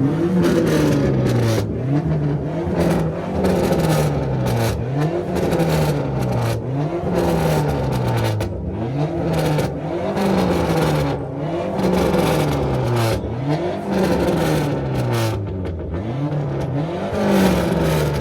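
Car engine free-revved over and over, its pitch climbing and dropping about a dozen times, roughly once every second and a half, loud and without a break.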